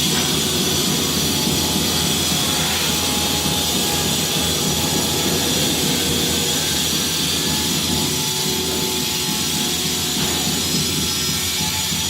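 A machine motor running steadily with a high whine, dropping away right at the end.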